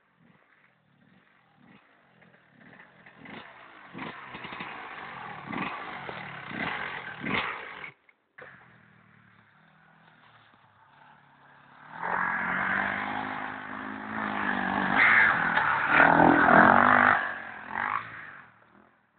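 Enduro motorcycle engines revving as bikes ride past. The first pass builds over several seconds and cuts off abruptly about eight seconds in; a second, louder pass starts about twelve seconds in and fades near the end.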